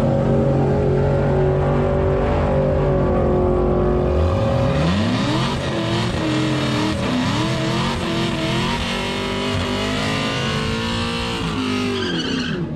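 Cadillac CTS-V's supercharged V8 doing a drag-strip burnout, held at a steady high pitch for about four seconds, then revved up and down repeatedly as the rear tyres spin and smoke, falling away near the end.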